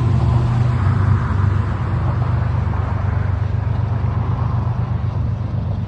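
Union Pacific freight train passing, a steady low diesel rumble with wheel and rail noise slowly fading as it moves away.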